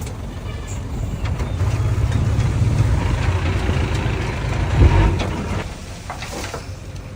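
Diesel engine of heavy earthmoving machinery working. It grows louder over the first few seconds, with a short loud jolt about five seconds in, then eases off.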